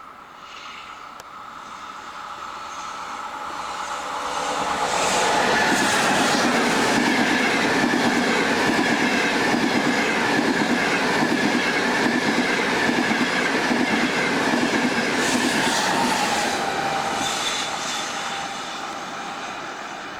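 A train passing by: it builds up over the first few seconds, runs loud with a steady whine over the rumble of the wheels, then fades away near the end.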